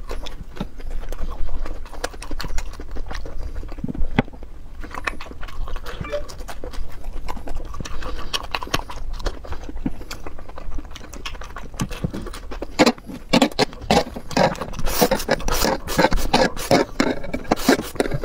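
Close-miked eating sounds: wet chewing and mouth clicks as a fried, breaded ring is eaten. They become denser and louder over the last five seconds, ending on a mouthful of noodles.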